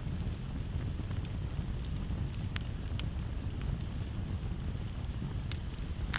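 Campfire crackling, with sharp pops scattered irregularly over a steady low rumble of flames and breeze. Crickets trill steadily in the background.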